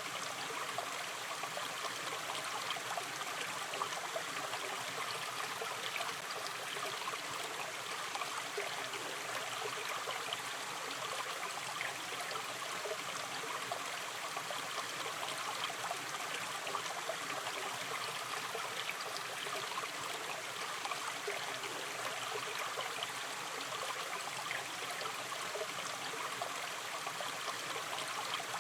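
Gentle river stream flowing steadily, with a continuous rush of water and small splashes and trickles throughout.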